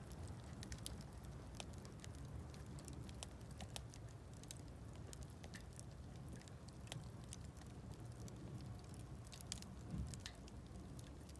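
Wood campfire crackling: scattered sharp pops and snaps over a low steady rumble, with a slightly louder pop about ten seconds in.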